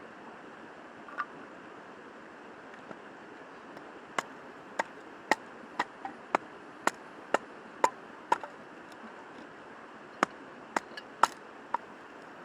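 Chopping: a run of sharp knocks at about two a second starting about four seconds in, a short pause, then a few more near the end, over a steady background rush.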